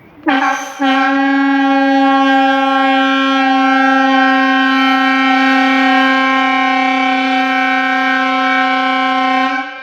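Compressed-air signal horn giving one long, steady blast of about nine seconds after a brief stuttering start. It is the first blasting warning signal of a chimney demolition, the long tone that orders the cordon closed before the two short tones.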